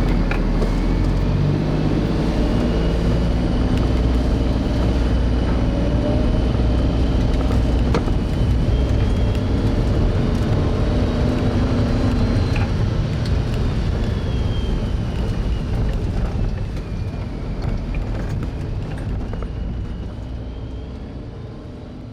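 A motor vehicle driving: steady engine rumble and road noise, fading out near the end.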